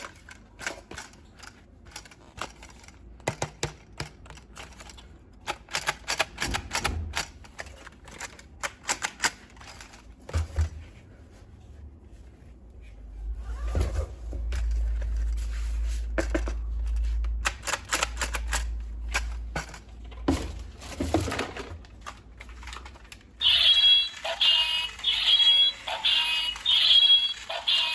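Irregular run of sharp plastic clicks and rattles from toy parts being handled, with a low rumble in the middle. Background music with a repeating tune starts near the end.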